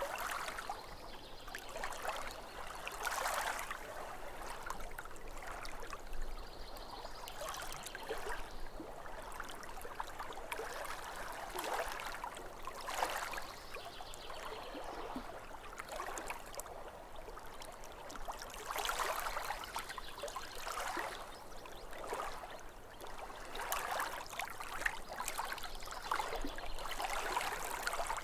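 Small waves lapping at a lake shore: a soft splashing wash that swells and ebbs every two to three seconds.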